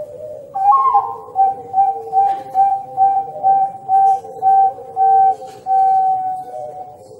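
A whistle-like tone pulsing about two to three times a second, slowing toward the end, over a lower wavering tone.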